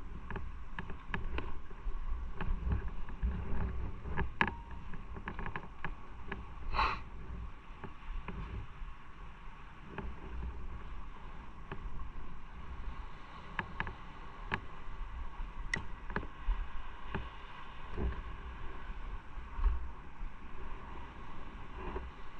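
Motorcycle riding on the road: a steady low engine and road rumble with wind buffeting the microphone, scattered small clicks, and one short high-pitched sound about seven seconds in.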